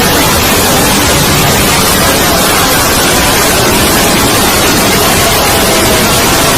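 Loud, steady noise like static: a cartoon soundtrack sped up so far that its voices and music blur into an even hiss with no words left.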